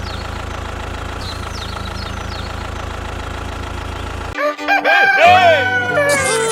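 Steady low engine idling rumble that cuts off suddenly about four seconds in. A rooster crows right after, as music starts.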